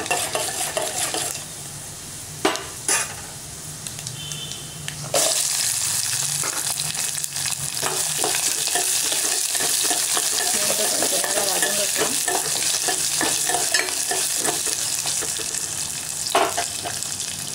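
Peeled garlic cloves frying in hot oil in a stainless-steel pot with mustard seeds, curry leaves and dal, a steel ladle clinking and scraping against the pot as it stirs. A loud, steady sizzle starts suddenly about five seconds in and goes on under the stirring.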